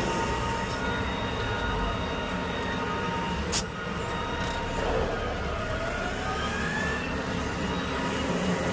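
Garbage truck running, with a steady low rumble and a faint whine. There is a sharp click about three and a half seconds in, and a rising whine a little later.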